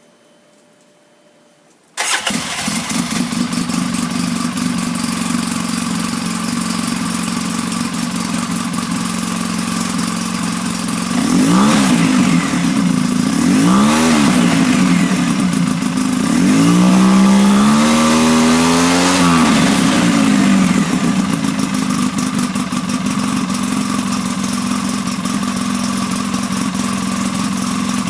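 2012 Polaris RZR 800 S twin-cylinder engine, fitted with a Muzzy twin exhaust, starting about two seconds in and idling steadily. It is blipped twice briefly, then revved once for about four seconds, and settles back to idle.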